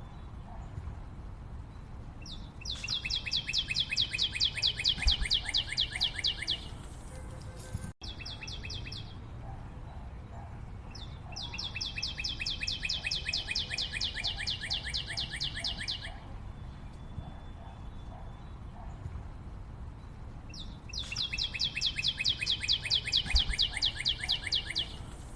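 A bird's rapid pulsed trill, given three times at intervals of about nine seconds, each bout lasting about four seconds, over a steady low background of forest noise.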